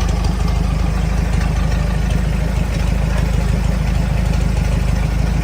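A large engine idling steadily, with an even low rumble.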